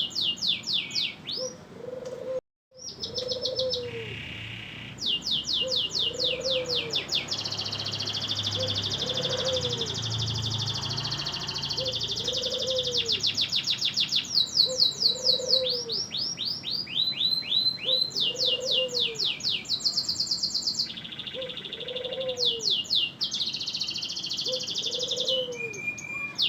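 Domestic canary singing in full voice: long, fast trills and rolling runs of rapid high notes, broken by a brief gap about two and a half seconds in. A low note repeats about once a second underneath the song.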